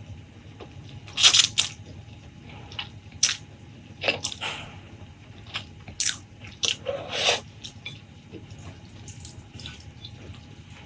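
Close-miked mukbang eating sounds: wet chewing and mouth clicks with occasional crunchy bites, irregularly spaced, the loudest bite about a second in.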